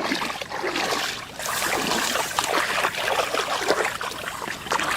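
Shallow floodwater splashing and sloshing as someone wades and works through it, with many small splashes close together.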